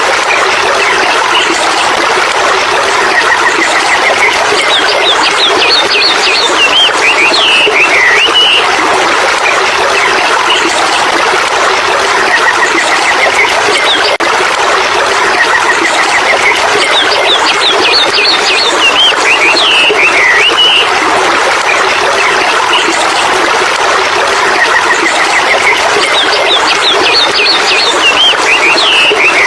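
Steady rushing water with birdsong over it. The same phrase of short rising chirps followed by falling whistles comes back about every twelve seconds.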